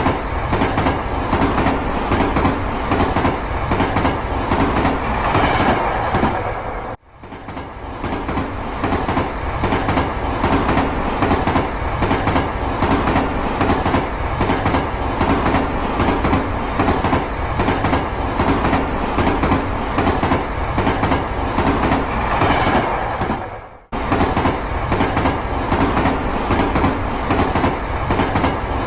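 Two Plarail EF65 toy locomotives, battery-powered, running double-headed with a long string of freight cars on plastic track: a steady motor whir with rapid clicking and clattering of plastic wheels over the rail joints. Twice the sound fades and cuts off for a moment, then comes straight back.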